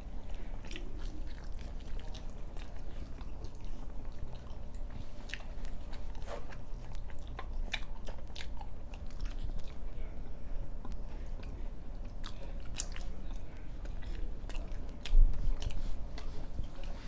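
A person chewing flatbread coated with egg, close to the mic: scattered wet mouth clicks and smacks over a steady low hum. A dull thump about fifteen seconds in.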